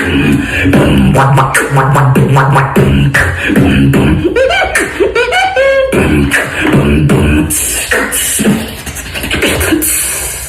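Human beatboxing: fast percussive mouth clicks and snares over a deep hummed bass line, mixed with pitched vocal slides and hissing cymbal-like sounds near the end.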